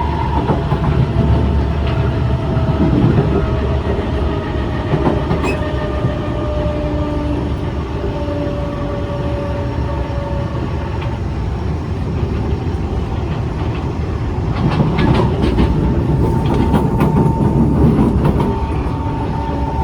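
Kawasaki C151 metro train running along the track, heard on board: steady wheel-on-rail rumble with a few motor tones that shift in pitch. A louder stretch of wheel clatter comes about 15 seconds in.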